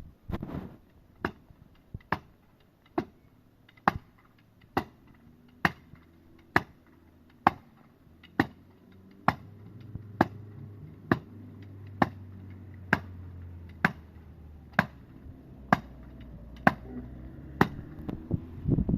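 Steady hammering on wood: about twenty sharp blows, a little more than one a second, as boards are nailed up. A low hum comes in about halfway.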